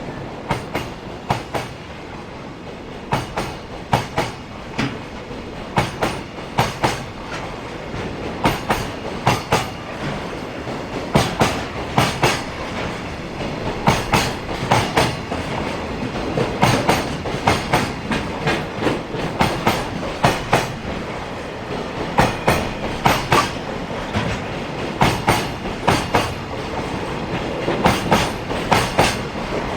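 Container freight train's wagons rolling past close by, the wheels clacking over rail joints in repeated quick groups of clicks, about one group every second or so.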